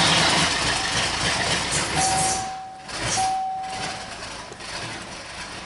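Ford 351 V8 of a 1981 Mercury Grand Marquis running just after catching on a flooded cold start with the throttle held about three-quarters open; it runs loud at first, then drops lower about three seconds in. Two brief thin whistling tones sound in the middle.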